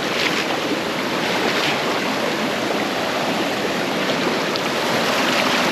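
Stream water running steadily, a constant wash of water noise.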